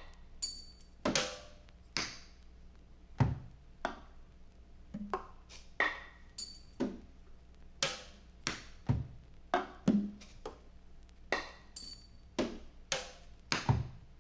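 Sparse, free-time drum and percussion playing: irregular single hits, roughly one or two a second, some low drum thuds and some dry woody knocks, each dying away quickly. A faint steady low hum runs underneath.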